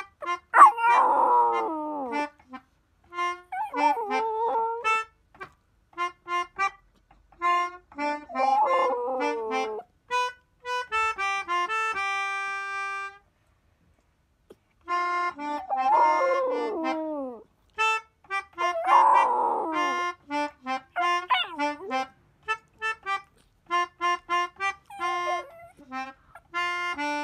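A melodica (pianica) plays short notes and a long held chord, while a Pomeranian howls along in about five long, wavering howls that bend in pitch. There is a short silent gap about halfway through.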